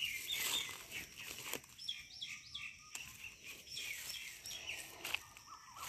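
A bird calling in short, repeated high chirps, in runs about two and four seconds in, over faint outdoor hiss and light rustling of foliage.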